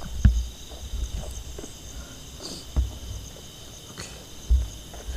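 Steady high chirring of forest insects, with three dull low thumps and a few light clicks and rustles.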